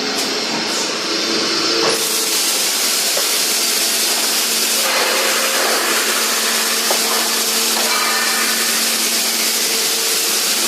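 Automatic scaffolding welding machine running, a continuous loud hiss over a steady low hum; the hiss turns brighter about two seconds in.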